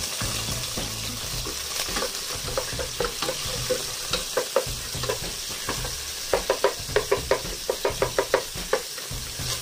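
Garlic and chopped onion sizzling in hot oil in a nonstick pot, stirred with a wooden spatula. The spatula knocks against the pot now and then, and from about six seconds in in a quick run of taps, about four a second.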